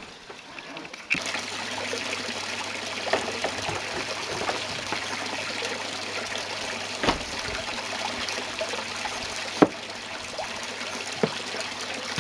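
Steady rush of running water with scattered clicks and a couple of sharper knocks, over a faint low hum.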